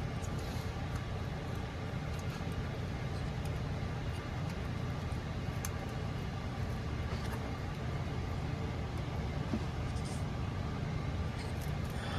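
A steady low mechanical hum, with a few faint clicks and taps over it.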